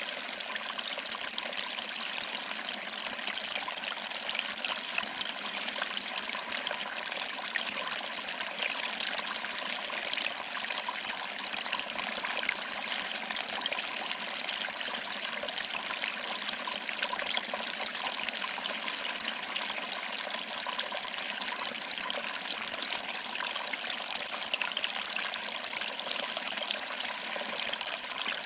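Small waterfall trickling over rocks and splashing into a pool, a steady even rush of water.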